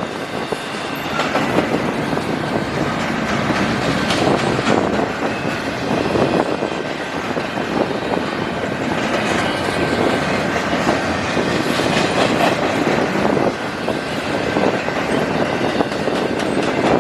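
CN intermodal freight train rolling past, its wheels clattering steadily over the rails.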